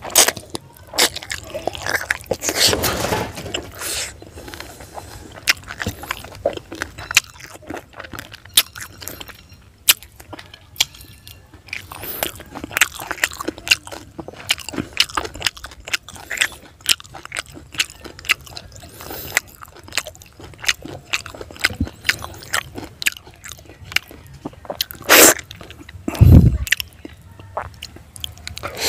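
Close-up mouth sounds of chewing and crunching fried fish head, with many sharp crackly clicks as it is bitten and chewed. A loud low thump comes near the end.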